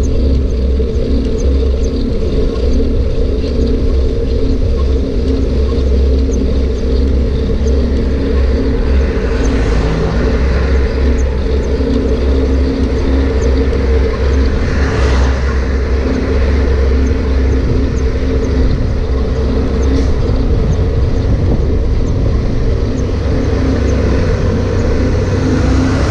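Steady loud low rumble with a constant hum under it: the wind and road noise of a bicycle ride picked up by the camera, swelling briefly about ten and fifteen seconds in.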